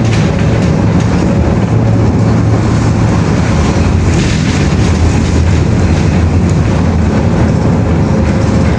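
Loud, steady mechanical rumble with a low hum and a faint steady tone, unbroken, as of a moving vehicle.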